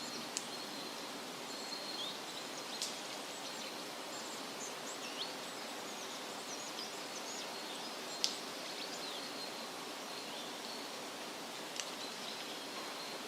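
Steady hiss of wind through leafy trees, with small birds chirping in short, high notes throughout. A few sharp ticks stand out, the loudest about three and eight seconds in.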